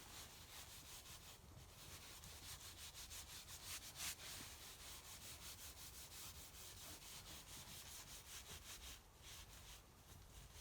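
Faint, quick, even strokes of hand rubbing on a wooden board, as in hand sanding or wiping wax into the wood.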